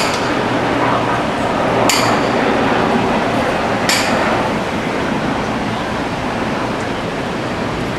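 Three sharp metallic clinks, evenly about two seconds apart, each ringing briefly, over a steady wash of background noise.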